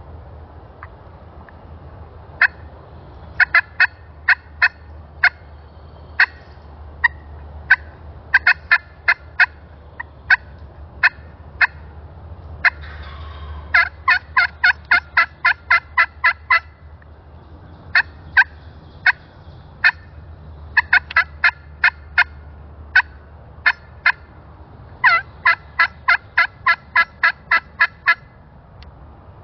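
Wild turkey clucking and cutting: sharp, short notes, some single and some in fast runs of about four or five a second.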